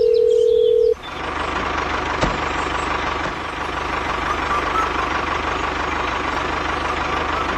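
A steady electronic beep that cuts off about a second in, followed by a tractor-type engine sound running steadily with a fast even putter.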